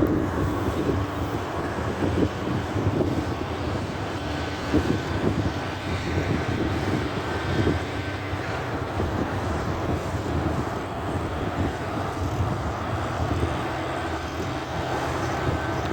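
Front-loader garbage truck's engine running steadily, a low rumble with a few brief louder moments.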